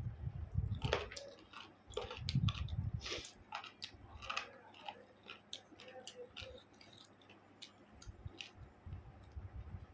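Close-up eating sounds: chewing and wet mouth smacking on rice and chicken curry, with many small sharp clicks and irregular low thuds.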